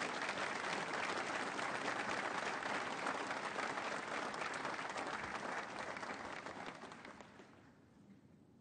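Audience applauding, a dense wash of clapping that fades away about seven seconds in.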